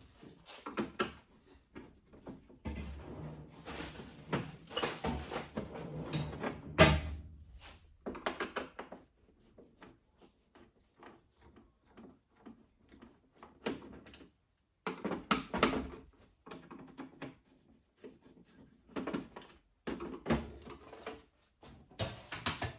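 Irregular handling noises of coffee-machine parts: scrapes, clicks and knocks of plastic and metal being moved and set down, with one sharp knock about seven seconds in and a quiet stretch near the middle.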